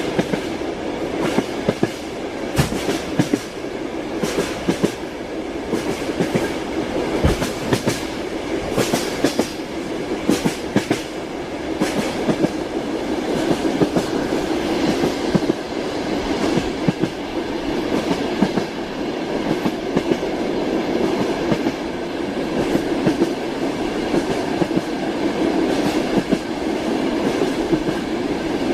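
Train wheels clacking over rail joints above a steady rolling rumble, heard from inside a moving railway carriage, with sharp knocks coming at irregular intervals.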